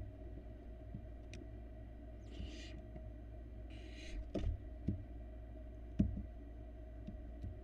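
Barn owl nestlings in a nest box: two short hissing screech calls a little over a second apart, followed by several dull thumps as the chicks move about on the box floor, over a steady electrical hum.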